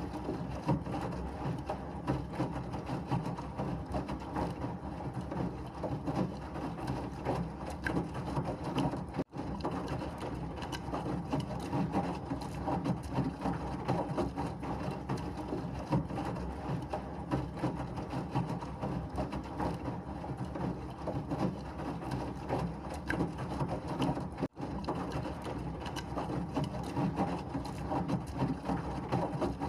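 Washing machine running steadily, a continuous mechanical noise used as white noise for babies. It cuts out for an instant twice, about a third of the way in and again past the three-quarter mark.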